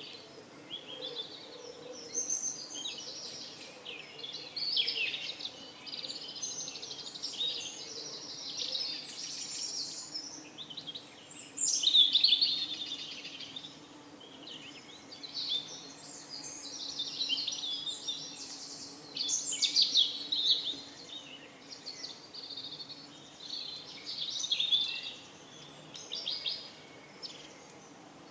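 Many small birds chirping and singing at once in a continuous, overlapping chorus of short high calls and trills, with a louder burst about twelve seconds in.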